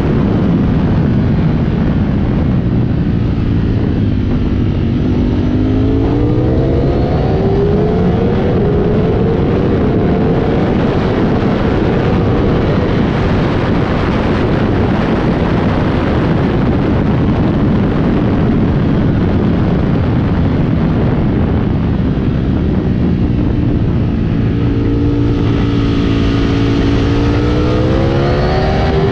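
2022 Ducati Streetfighter V4 SP's V4 engine running hard on track, heard from on the bike with a constant rush of wind. The revs fall about four seconds in, climb again, hold high through the middle, then dip and climb once more near the end.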